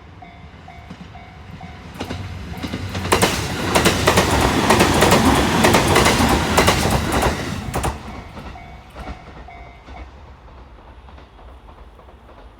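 A train passes through a level crossing, loudest from about three to eight seconds in, its wheels clacking over the rail joints. The crossing's newly installed warning bell rings in a repeating on-off pattern, heard plainly before the train arrives and again as it fades away.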